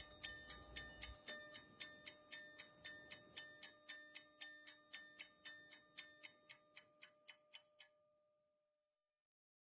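Faint, even clock-like ticking, about four ticks a second, over a faint held tone; the ticking fades and stops near the end.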